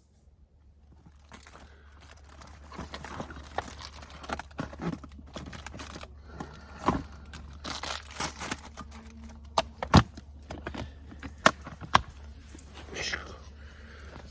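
Crinkling, rustling handling noise, like something being torn or unwrapped, with many sharp clicks and several louder knocks.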